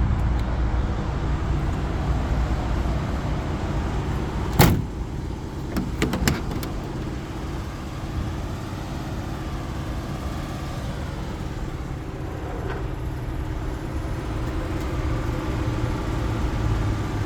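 A car engine idling steadily with a low rumble. About five seconds in there is one sharp knock, followed a second or so later by a few lighter clicks.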